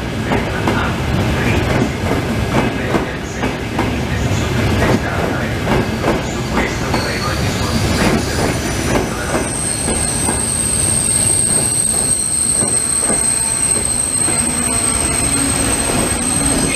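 Frecciarossa high-speed train rolling slowly past, its wheels knocking over the rail joints. From about seven seconds in, a high steady squeal sets in and grows louder.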